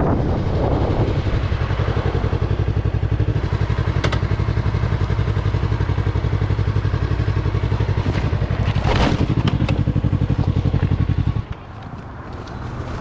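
Motorcycle engine running steadily with a rapid, even pulse, then cutting out suddenly about eleven seconds in. A couple of short sharp noises sound over the engine along the way.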